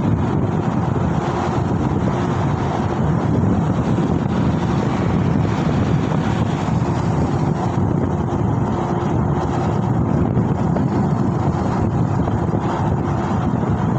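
Wind rushing over the microphone of a moving rider, a steady low rumble with vehicle noise underneath and a faint hum that comes and goes.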